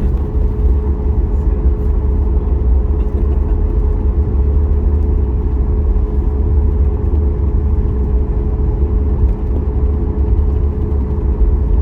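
Cabin noise of a Boeing 737 MAX 8 taxiing, its CFM LEAP-1B engines at idle: a steady, loud low rumble with a constant hum underneath.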